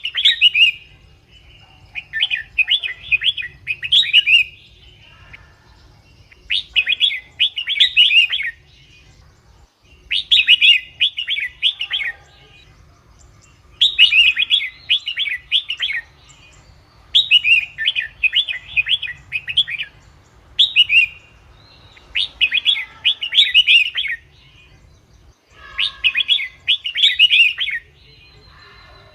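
Red-whiskered bulbul singing: a run of short warbled phrases, each lasting one and a half to two seconds and repeated every three to four seconds with brief pauses between.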